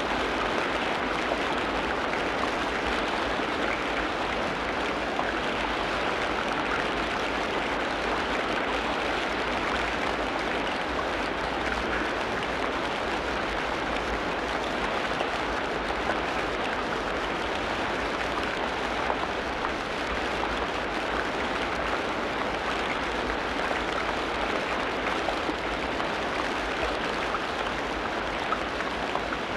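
Steady rain falling on rainforest foliage, an even patter at a constant level throughout.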